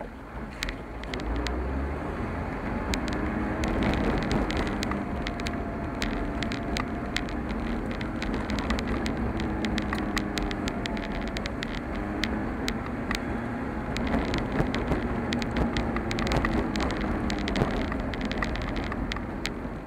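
Car driving along a rough road: steady engine and tyre noise, the engine pitch slowly rising and falling, with many short sharp ticks and rattles throughout.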